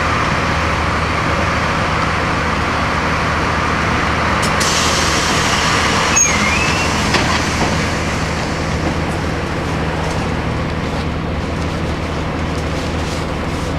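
Interior of a Blue Bird CS transit bus under way: its Cummins ISC inline-six diesel runs steadily with road noise. About four and a half seconds in a hiss of air rises for a couple of seconds, with a short squeal and click in the middle of it.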